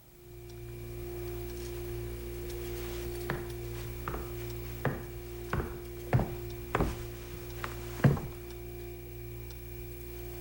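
A run of sharp wooden knocks, irregularly spaced over about five seconds, the last one loudest, over a steady hum.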